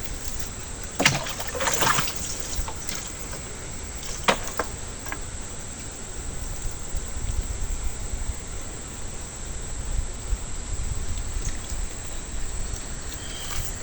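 Water trickling and splashing over a steady hiss, with a few sharp splashes or knocks about one, two and four seconds in.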